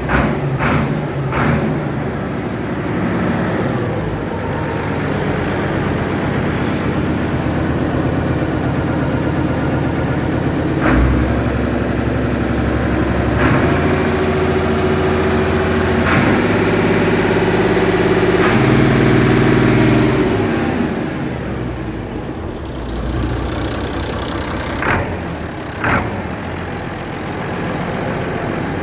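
Massey Ferguson 1615 tractor engine running, its speed stepping up and down several times, with a few short clunks along the way.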